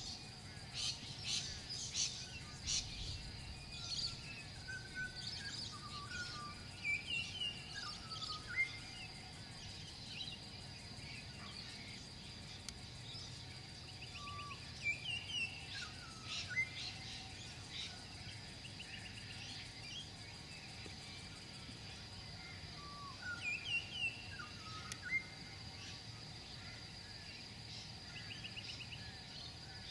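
Birds calling: short chirps and whistled notes in bursts that come back every several seconds, over a steady high-pitched drone.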